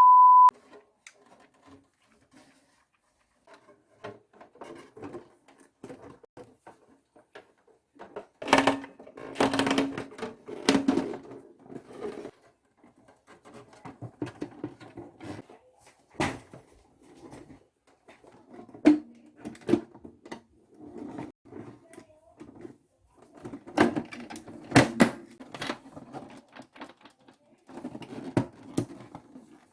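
Clicks and knocks of small plastic parts being handled and worked on while a toy washing machine is repaired. A short loud beep sounds at the very start.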